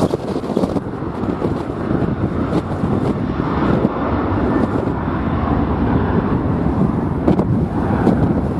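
Strong gusty wind buffeting the microphone: a loud, rumbling, fluctuating roar that swells and eases.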